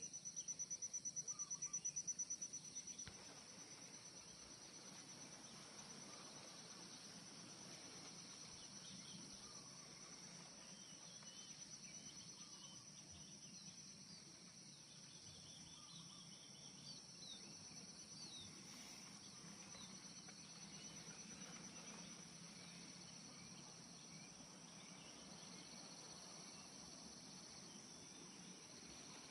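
Insects, cricket-like, trilling in a steady high chorus. A rapid pulsing call is louder for about the first three seconds, then the chorus goes on fainter, with a few faint short chirps.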